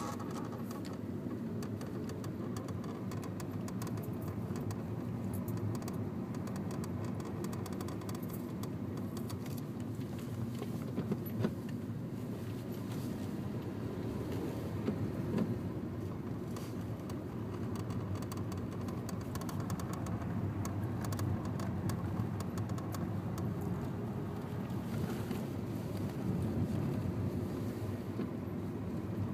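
Honda New Civic running steadily, with irregular light clicking and rattling throughout: the clutch noise the owner is documenting.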